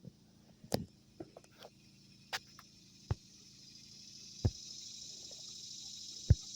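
Steady high-pitched chorus of insects such as crickets, growing louder from about halfway through, with a handful of sharp separate clicks and taps.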